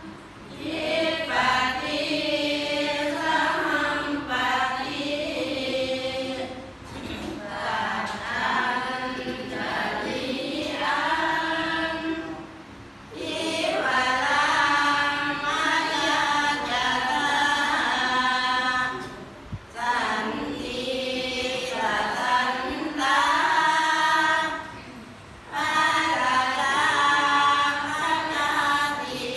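A group of voices chanting together in unison, Buddhist chanting in long phrases broken by a few short breath pauses.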